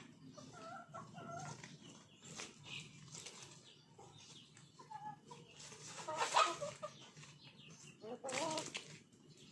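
Chickens clucking: scattered short calls, the loudest about six seconds in and another near the end.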